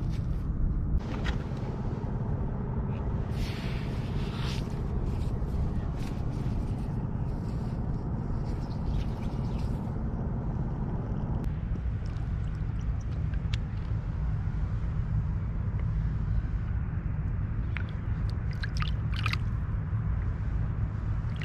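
Wind rumbling steadily on the microphone, with a few short scrapes and clicks now and then.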